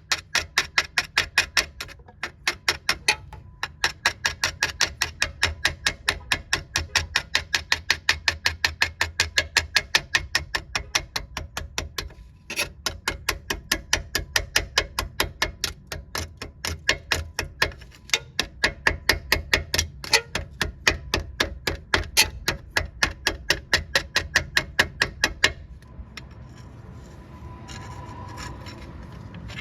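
Rapid, even strokes of a hand tool on rusty metal, about five a second in long runs with brief pauses, working rust off a wheel hub. Near the end the strokes stop and give way to a softer, steadier rubbing.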